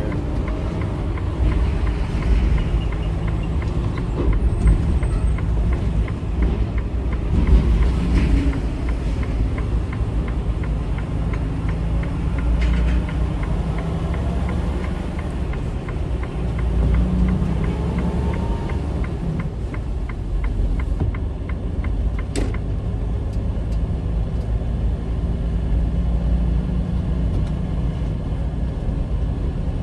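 Semi-truck's diesel engine running steadily with road noise while driving.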